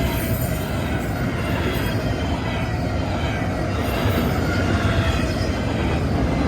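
Norfolk Southern freight train rolling past with a steady rumble of wheels on rail and a faint high wheel squeal.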